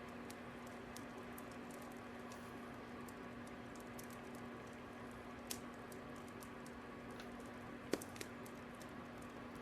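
Fire crackling: scattered small irregular pops over a steady hiss, with a louder pop about five and a half seconds in and a sharper one about eight seconds in.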